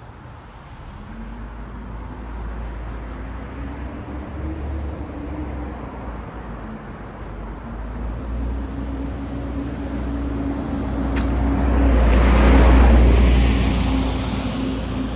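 Road traffic: vehicles running past with a low rumble and a steady engine hum, growing louder as one vehicle passes close about twelve seconds in, then easing off.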